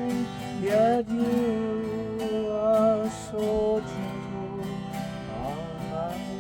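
Acoustic guitar strummed and picked as an instrumental passage, with long wavering notes sliding upward about a second in and again near the end.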